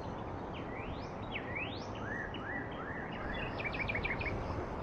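Small aviary finch singing a varied phrase: two fast upward sweeps, a run of repeated short notes, then a quick series of downward-slurred notes near the end, over a steady background hiss.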